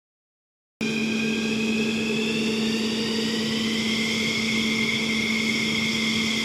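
Fighter jet engines running with a steady hum and a high turbine whine that slowly rises in pitch; the sound starts abruptly out of silence about a second in.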